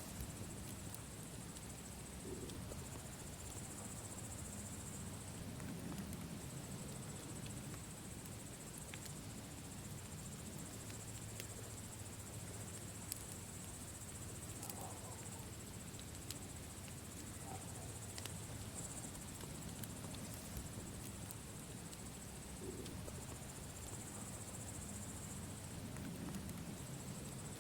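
Campfire burning softly, with scattered faint crackles and pops over a low rumble, under a steady high chirring of insects that swells and fades every few seconds.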